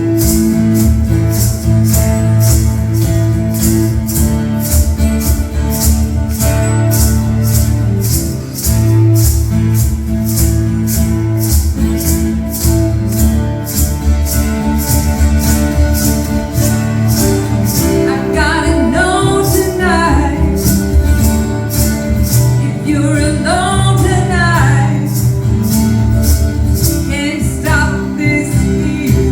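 Live band music from a duo: a steady, even beat of bright ticks over sustained bass and chords. Singing comes in about two-thirds of the way through, in three short phrases.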